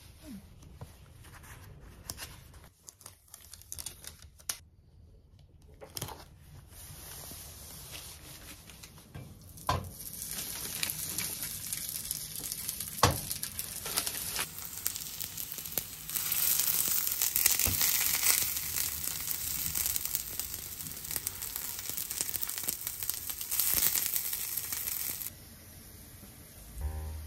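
Hash brown patties sizzling in hot oil in a frying pan. The sizzle grows louder partway through and stops shortly before the end, with a few sharp knocks of utensils; quiet handling and rustling come before it.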